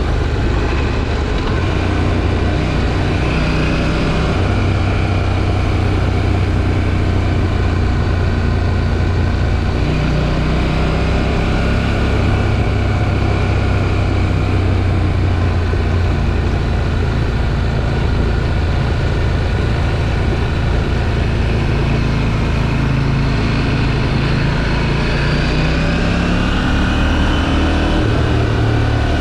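KTM 790 Duke's 799 cc parallel-twin engine running through its stock exhaust while riding, the note rising and falling with the throttle and climbing near the end.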